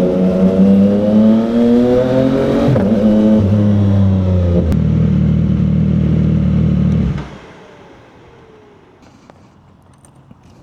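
CFMOTO 675's inline three-cylinder engine revs up, then eases off and settles to a low steady running. It cuts off abruptly about seven seconds in, leaving only faint clicks.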